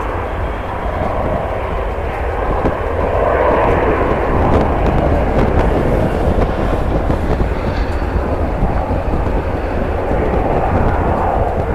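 Jet airliner engine noise as the aircraft passes close by: a loud, steady rush that swells and eases slightly. A steady low rumble of wind buffets the microphone throughout.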